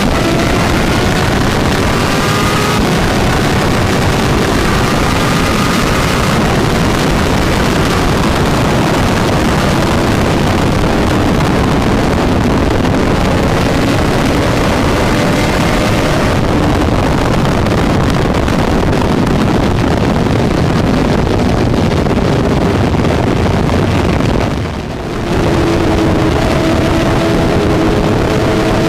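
Honda CBR1000RR-R's inline-four engine pulling hard at high speed, its pitch climbing, under heavy wind noise on the microphone. Near the end the sound drops briefly, then the engine note climbs again.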